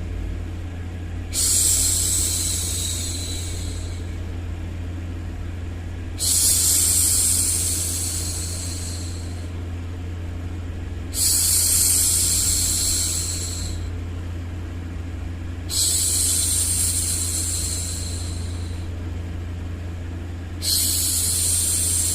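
A woman shushing a baby, 'shhh', five times, about once every five seconds; each shush starts suddenly and fades over two or three seconds. Underneath runs a steady low white-noise rumble.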